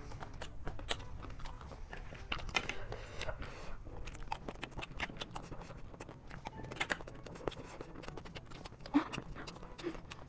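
Close-miked crunching and chewing of chatpate, a spicy puffed-rice snack, heard as a dense, irregular run of crisp crackles and clicks.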